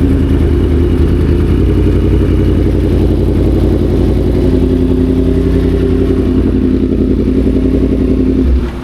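Yamaha MT-10 SP's crossplane inline-four engine running steadily at an even pitch, then easing off about half a second before the end as the throttle closes.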